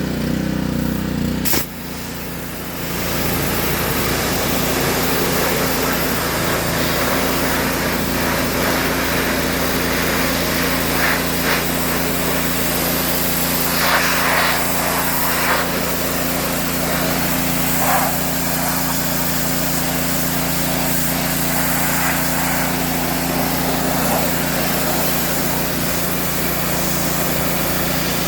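Gas pressure washer with a Honda engine running steadily; about two seconds in the wand is triggered and a water jet hisses steadily over the engine as it sprays the truck body.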